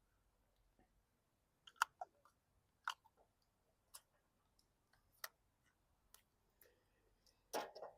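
Scattered light clicks and taps against near silence, roughly one every half-second to second, with a sharper one a little under two seconds in and a louder double knock near the end: small parts or tools being handled at a workbench.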